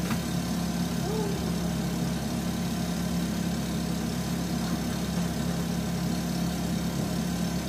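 Nissan Micra's engine idling with a steady low hum.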